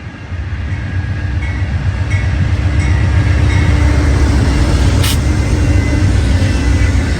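Train running past, a heavy low rumble that builds over the first few seconds and then holds steady, with a faint steady hum and one sharp click about five seconds in.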